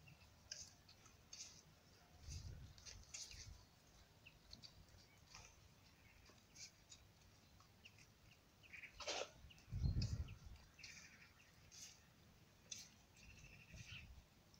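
Faint, scattered chirps of small birds, with a short held note near the end. A low thump or rumble about ten seconds in is the loudest sound.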